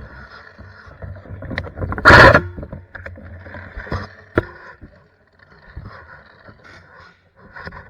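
Rustling and irregular knocks from a body-worn action camera and gear on the move, over a steady low rumble, with one loud, sharp burst about two seconds in.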